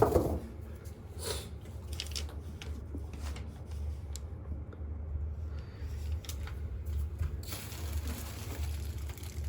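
Packaging and the robot vacuum being handled during unboxing: scattered light rustles, crinkles and small knocks, over a steady low hum.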